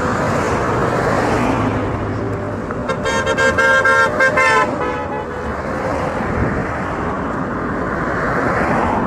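Street traffic going past, with a vehicle horn sounding a quick string of short toots for about a second and a half, a few seconds in; the noise of passing vehicles swells at the start and again near the end.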